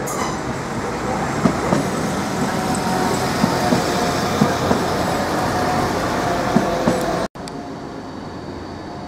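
Class 350 Desiro electric multiple unit running past close by along the platform: a steady rumble of wheels on rail with scattered clicks over rail joints. About seven seconds in it cuts off abruptly to a quieter steady background.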